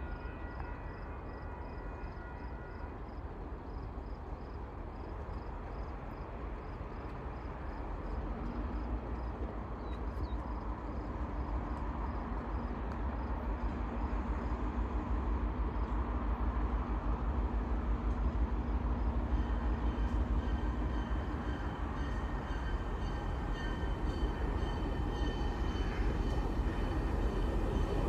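CN track inspection rail car 1501, a converted Budd RDC, approaching: a steady low rumble of its engine and wheels on the rails that grows gradually louder as it nears.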